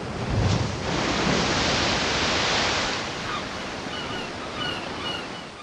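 Ocean surf: a steady wash of waves, loudest in the first half, with a heavier surge about half a second in. A few short high chirps come in over the second half.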